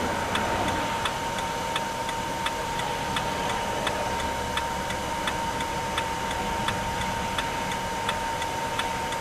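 Regular ticking, about three ticks every two seconds, over a steady hiss and a thin steady high hum.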